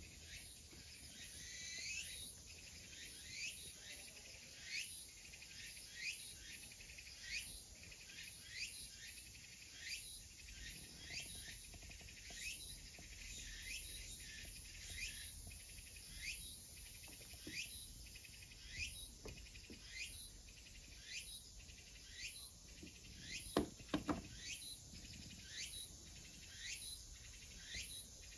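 Faint bird calls: short sweeping chirps repeated over and over at about one a second. A couple of soft knocks come near the end.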